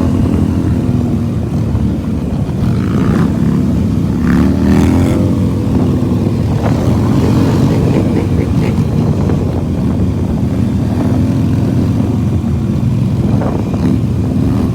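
Motorcycle engine running and revving, its pitch rising and falling repeatedly.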